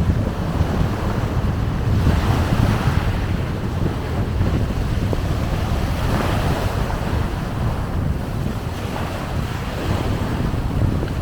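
Sea waves washing onto the shore, surging a couple of times, with wind buffeting the microphone in a steady low rumble.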